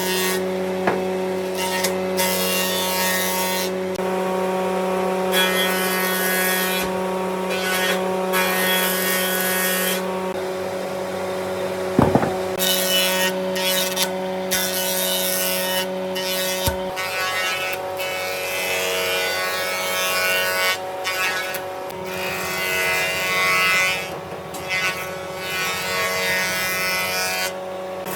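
Electric power tool motor running steadily while working wood, with repeated bursts of hiss as it bites into the surface. There is a sharp knock about twelve seconds in and another about seventeen seconds in.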